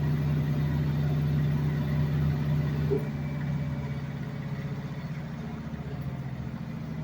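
LG drum washing machine running, a steady motor-and-drum hum with a fast fine pulsing. A single knock comes about three seconds in, after which the hum gets quieter.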